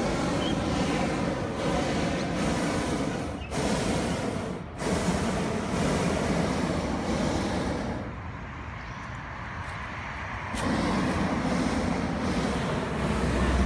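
Steady road-traffic noise, with a few abrupt breaks and a quieter stretch that ends suddenly about ten and a half seconds in.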